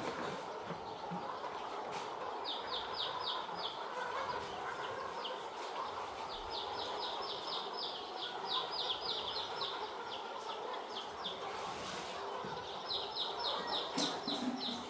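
Young chicks peeping in a brooder flock: runs of rapid, high chirps over a steady background murmur.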